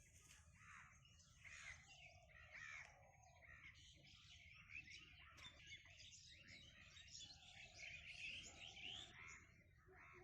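A faint chorus of many birds chirping and calling at once, the short calls overlapping throughout.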